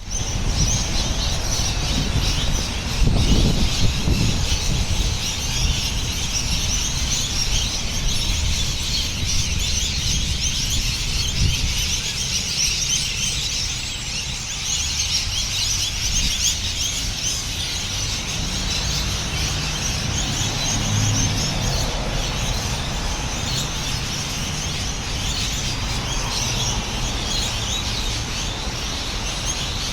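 Dense evening chorus of many birds chirping and calling at once, a continuous high-pitched chatter, over a low rumble that swells briefly a few seconds in.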